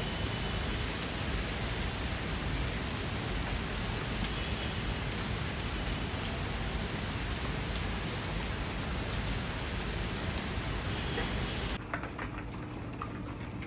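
Steady, heavy rain falling. About twelve seconds in, the sound changes abruptly to a thinner hiss with scattered separate drops.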